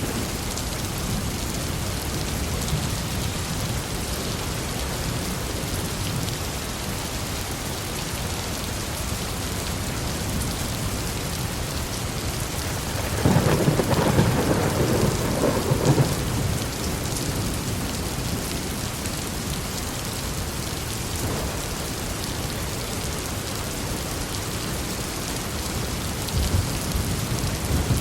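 Steady heavy rain with rolling thunder; a louder peal of thunder rumbles about halfway through, lasting a few seconds.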